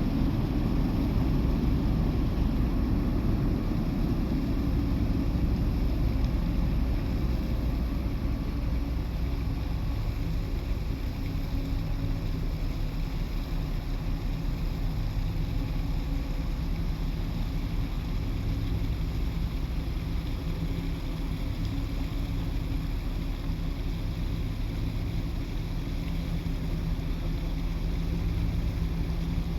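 Large car ferry's engines running with a steady low drone as the ship leaves port.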